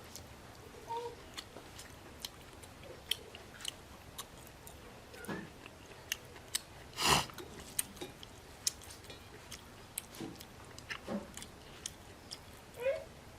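Close-up eating sounds: wet chewing and lip smacks, heard as scattered sharp clicks, with one louder mouth noise about seven seconds in.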